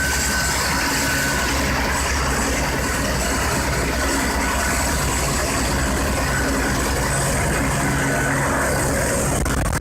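Helicopter turbine engine running during start-up with the rotor turning: a steady high whine over a fast, even low beating from the blades.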